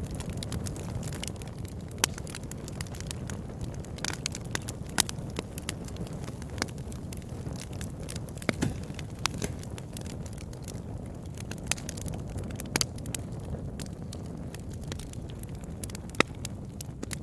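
Wood campfire burning with a steady low rumble and irregular sharp crackles and pops, a few of them much louder than the rest.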